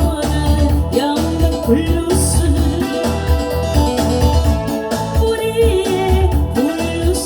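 A singer sings a Korean blues song over a backing track with a steady bass beat.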